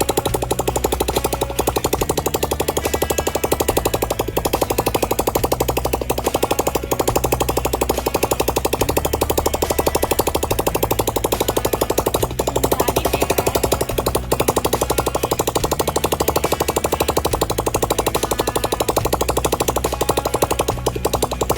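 Bajaj Platina motorcycle's single-cylinder four-stroke engine running after being rebuilt and refitted, with a rapid, even beat.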